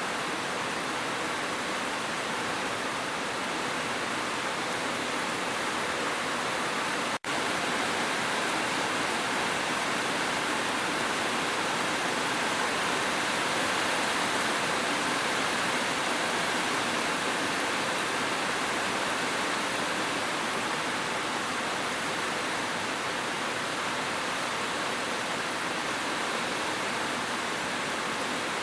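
Steady, even rushing of water, a continuous rain-like hiss with no separate drops or events. It cuts out for a split second about seven seconds in, then carries on unchanged.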